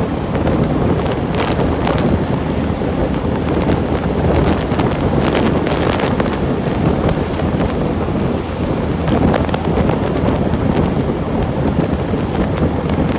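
Wind buffeting the microphone while riding: a steady low rushing rumble with scattered short clicks and rattles.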